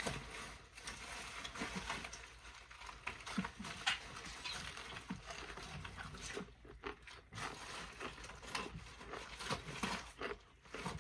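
Close-up chewing of crunchy fried chicken nuggets: irregular crunches and mouth sounds.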